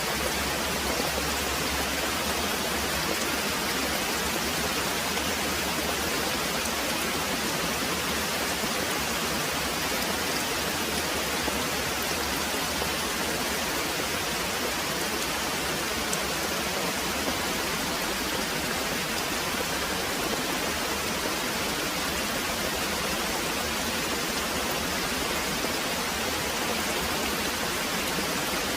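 Very heavy rain pouring steadily, an even hiss with no breaks or thunder.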